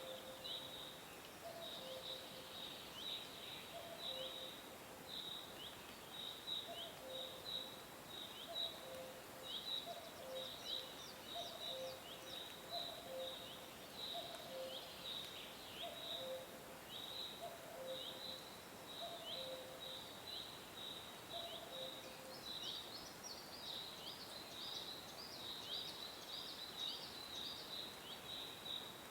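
Songbirds chirping: a steady run of short, high chirps, thickening with extra higher notes near the end. Under them a lower two-note call repeats about once a second and stops a few seconds before the end.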